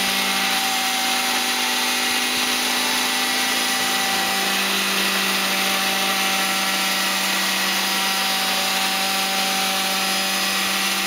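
Radio-controlled model helicopter's engine and rotors running at a steady high speed, a constant whine with several fixed tones over a hiss.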